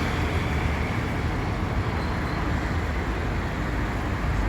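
Steady low rumble of a moving vehicle, road or engine noise running evenly throughout.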